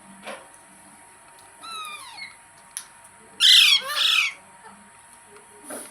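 Rose-ringed parakeet squawking: a short call at the start, a run of quick falling chirps about two seconds in, then two loud harsh screeches back to back at about three and a half seconds, and a softer call near the end.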